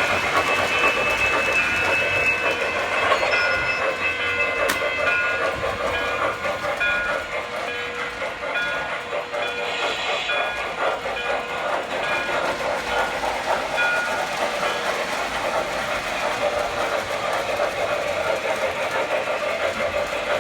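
Model train running along its track in a steady, continuous run, with short high tones over the first half.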